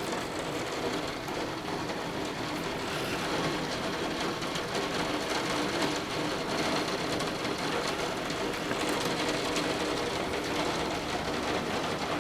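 Torrential rain falling steadily: a dense, unbroken hiss packed with fine, rapid drop impacts.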